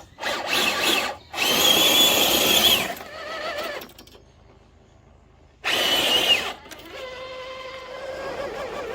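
Electric motor of an RC toy car whining in throttle bursts as it drives through mud: two loud bursts, a quieter stretch and a pause, another short burst, then a steady, lower-pitched whine.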